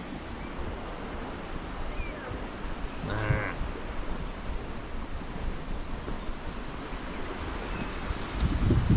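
Steady rush of river water and wind, with one short animal call about three seconds in and a gust of wind buffeting the microphone near the end.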